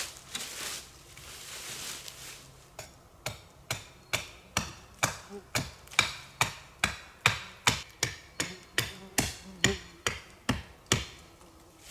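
A hand tool striking something over and over at a steady pace, about two and a half sharp blows a second. The blows start about three seconds in, after some rustling, and stop about a second before the end.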